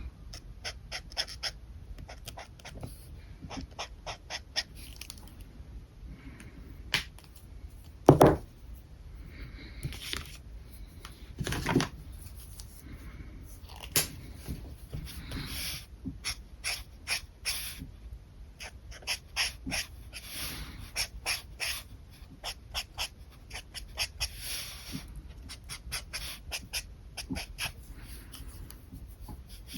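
Alcohol markers stroking across paper: many short, scratchy strokes in quick series. Two much louder thuds come about 8 and 12 seconds in.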